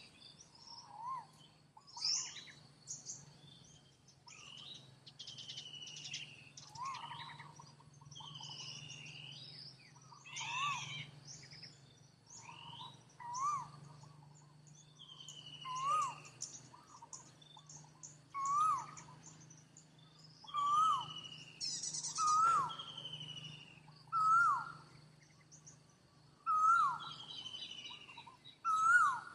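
Several birds chirping and calling, with high short chirps and falling whistles. A short rising-then-falling call repeats about every two seconds and grows louder toward the end, over a faint steady low hum.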